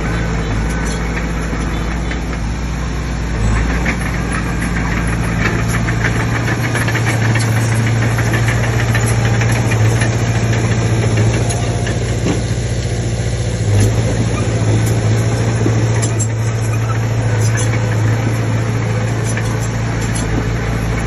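Komatsu D20P bulldozer's diesel engine running, with the engine note and loudness stepping up a few seconds in as it takes load, over scattered metallic clatter and a single louder knock about two-thirds of the way through.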